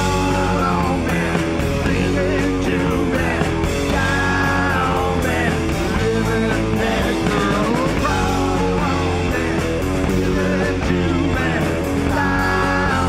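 Rock band playing live at full volume, electric guitar to the fore over bass and drums.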